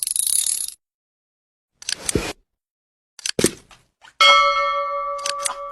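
Edited sound effects: a short hissing whoosh, two dull thuds, then a struck bell-like chime ringing with several steady tones and slowly fading.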